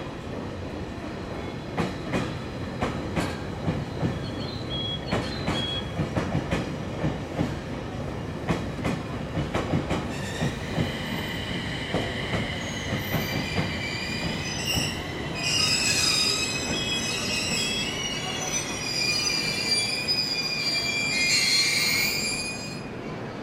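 Coupled JR East E721-series and 701-series electric trains running slowly into a station platform. For the first ten seconds or so the wheels click unevenly over rail joints. Then comes a high-pitched wheel squeal in several tones, loudest in the last few seconds, as the train slows.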